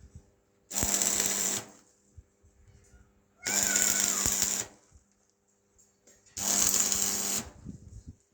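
A motorised tool runs in three short bursts of about a second each, spaced roughly three seconds apart, with a steady hum under each burst.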